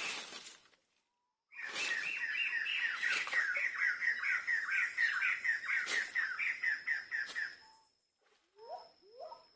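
A bird calling in a fast run of short, downward-slurred notes, about four a second, for some six seconds, followed near the end by a few lower rising calls. A brief noise comes just at the start.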